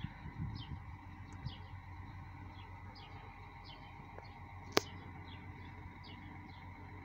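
A bird chirping repeatedly, about two short high chirps a second, over a steady low hum. A single sharp click about five seconds in.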